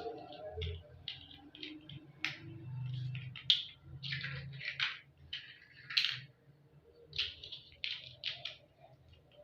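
Toy building blocks clicking and clattering as they are handled, a string of short sharp clicks at an irregular pace.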